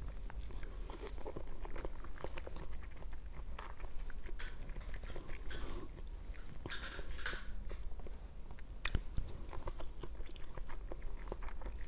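Close-miked chewing and biting of candy-coated macarons, with sharp mouth clicks and a few brief crackly bursts as the shell breaks.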